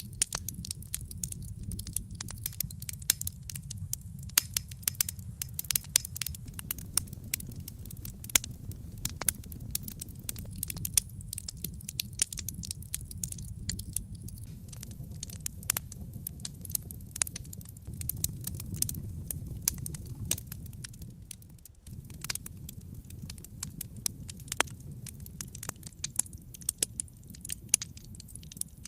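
Wood fire burning in a fireplace, crackling with frequent, irregular sharp pops and snaps over a low, steady rumble of the flames.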